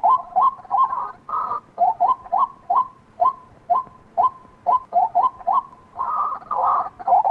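White-breasted waterhen calling: a long run of short, sharp notes, two to three a second, with longer, harsher bouts near the start and again about six seconds in.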